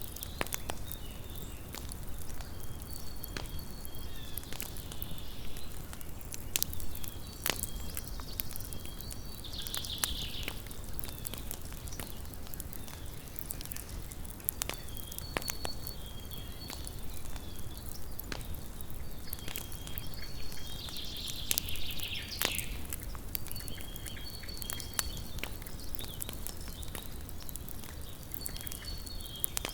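Small wood campfire burning, with irregular crackles and a few sharper pops over a steady low hiss. A high, faint chirping call repeats every few seconds in the background.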